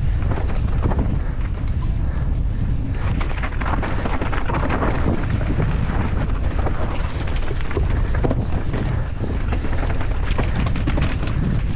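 Wind buffeting the microphone of a mountain bike at downhill speed, with steady rattling and clatter from the bike over rough ground.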